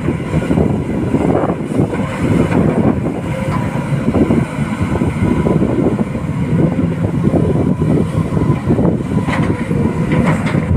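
Heavy diesel machinery running with a steady, rough rumble, with wind buffeting the microphone.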